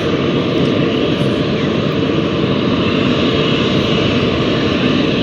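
Jet airliner engines running with a loud, steady noise as the plane taxis.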